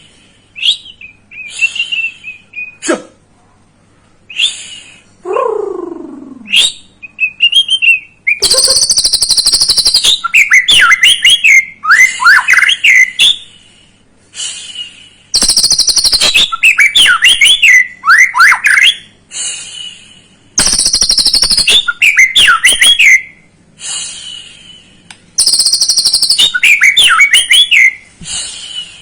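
White-rumped shama (murai batu) song used as a lure: scattered short notes and one long falling whistle at first, then four loud bursts of a few seconds each, made of fast chattering rattles and quick rising and falling whistled notes, with short pauses between.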